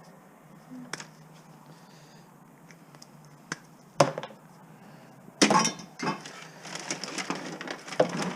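Hard parts of a scrapped electronic device knocking and clattering as pieces are pulled and pried off it by hand: a few light clicks, a sharp knock about four seconds in, then a run of rattling clatter in the second half.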